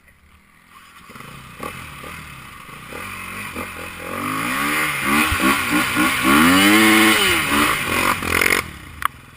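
Enduro motorcycle engine growing louder as the bike comes close, revving up and down in pitch as the rider works the throttle; it is loudest about six to seven seconds in and cuts off abruptly near the end.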